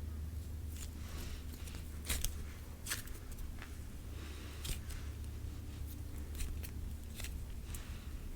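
Butter slime being pressed and stretched by hand, giving irregular sticky clicks and pops a few times a second, over a steady low hum.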